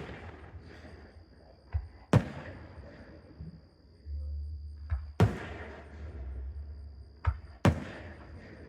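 Aerial fireworks shells bursting: three loud booms about two and a half seconds apart, each with a lingering echoing decay and a softer pop shortly before it.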